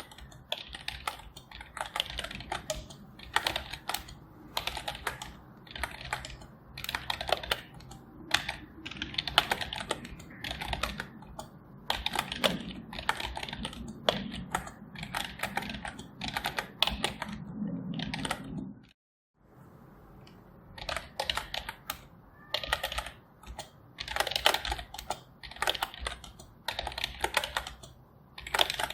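Typing on a computer keyboard: quick runs of keystrokes in uneven bursts with short pauses between them, over a faint low hum. The sound cuts out completely for about half a second near the two-thirds mark, then the typing resumes.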